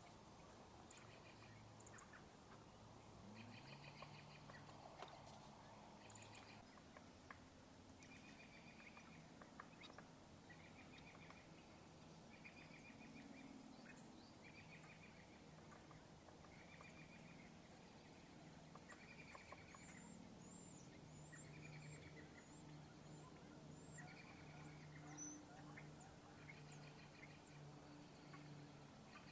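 Faint backyard birdsong: a short rattling bird call repeats about every one to two seconds, with a brief run of high thin chirps about two-thirds of the way through, over a low steady hum.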